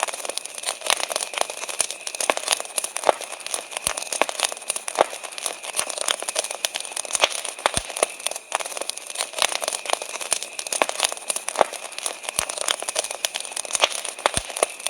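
Wood campfire crackling: a steady hiss with frequent sharp snaps and pops at irregular intervals. Behind it is a faint, steady high-pitched chirring of crickets.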